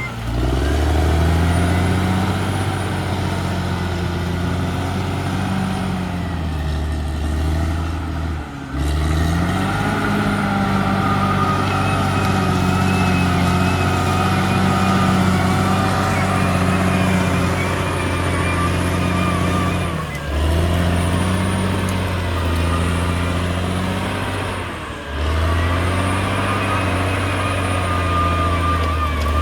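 Caterpillar D6R XL bulldozer's diesel engine running steadily under working load. Its note briefly drops and changes pitch about eight seconds in, again around twenty seconds and once more near twenty-five seconds.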